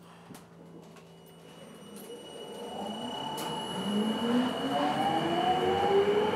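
Sapporo Municipal Subway Namboku Line 5000-series train pulling away from a station: the traction motor inverter whine rises steadily in pitch as the train accelerates, growing louder throughout, with a sharp click about three seconds in.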